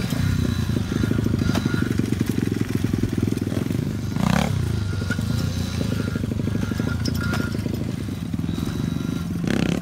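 Small dirt bike engine running steadily, its firing pulses continuous, with two brief noisy bursts partway through and near the end.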